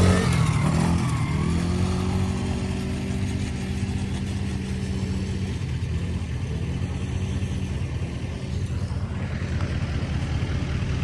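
A motor vehicle's engine running: its pitch climbs during the first second or two, then holds steady.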